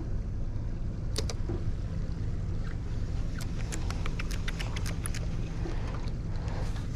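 Steady low rumble of wind and water around a small fishing boat, with a scattered run of sharp light clicks and ticks in the middle.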